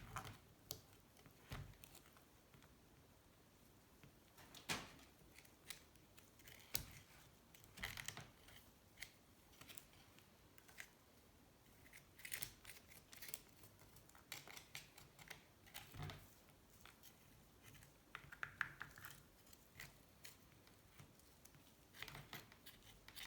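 Faint, scattered scrapes and clicks of a blade working at dried gasket material on an aluminium motorcycle engine case, in short irregular strokes with pauses between them.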